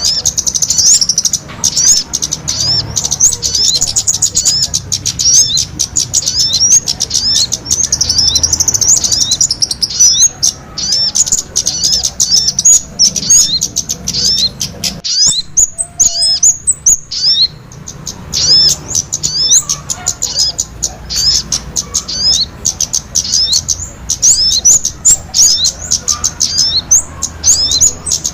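Many small birds chirping rapidly and continuously in quick, high, hooked notes, many per second: a small-bird lure call (suara pikat). The chirping thins out briefly about halfway through.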